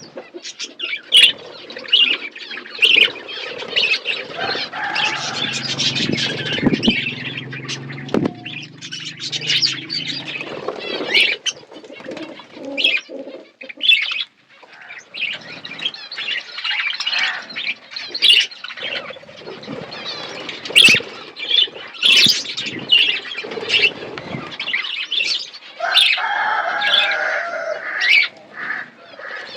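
Budgerigars chirping and chattering, mixed with many short clicks, rustles and wing flutters.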